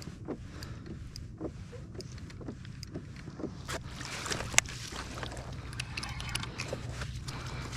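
Small splashes and knocks on and around a kayak on the water, over a steady low rumble. The splashes and knocks come more often in the second half.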